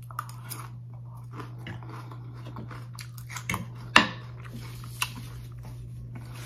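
A person chewing a mouthful of crisp lettuce salad: irregular crunches, the loudest about four seconds in, over a steady low hum.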